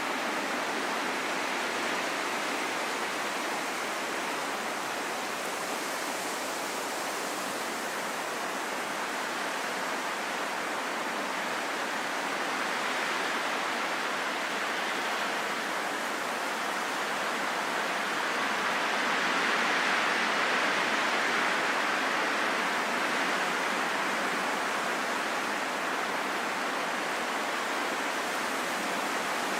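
Steady rushing wind noise with no distinct gusts, swelling a little about two-thirds of the way through.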